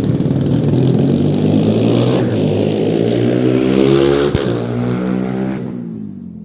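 A motor vehicle engine running and rising in pitch as it speeds up, then fading out suddenly near the end.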